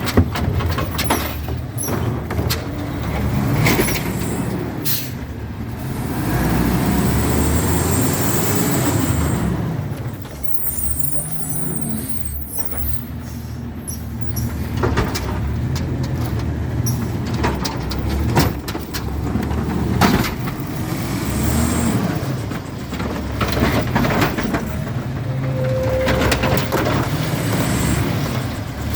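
Garbage truck with an Amrep automated side-loader arm at work: the diesel engine rises and falls in pitch again and again as it drives the arm's hydraulics. Sharp knocks and clanks are scattered throughout.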